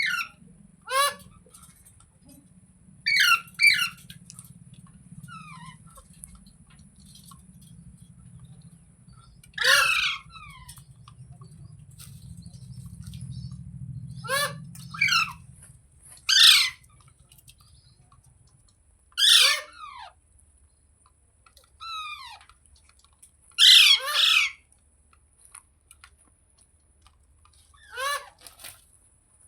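Rose-ringed (ringneck) parakeet screeching: about a dozen short, harsh calls, each falling in pitch, some in quick pairs, every couple of seconds.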